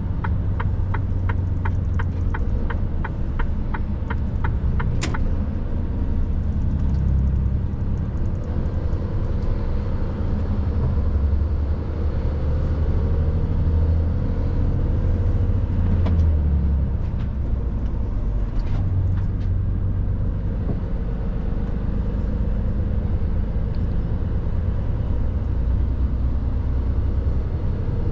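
Mercedes truck's diesel engine running under way with a steady low rumble. For the first five seconds an indicator relay ticks about three times a second, stopping with a sharper click; a slow rising whine comes in midway.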